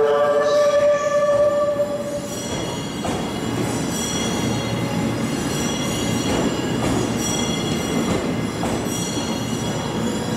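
Train Suite Shiki-shima pulling out of the station. A held horn-like tone dies away about two seconds in. Then comes the steady rumble of the moving train, with high, wavering wheel squeal that comes and goes.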